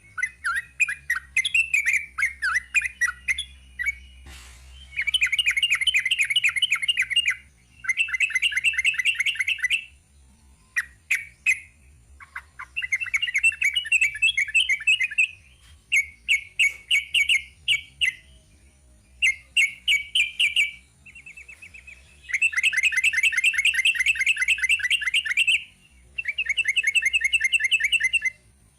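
Yellow-vented bulbul (trucuk) singing: long runs of rapid, repeated chattering notes, one phrase after another with short pauses between.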